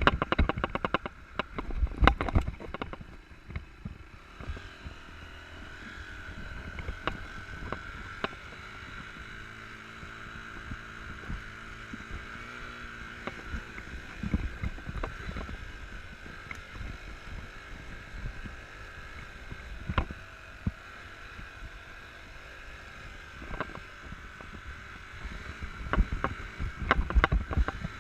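Enduro dirt bike running at low revs over rough ground, with the engine note rising and falling gently. Repeated thumps and knocks from bumps and wind buffeting on the microphone are heaviest in the first few seconds and again near the end.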